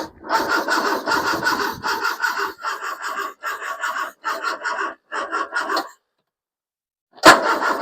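Ford 2.0 Pinto four-cylinder engine cranking on its starter motor with a rhythmic pulsing chug, not firing. It stops about six seconds in, and the starter cranks it again near the end.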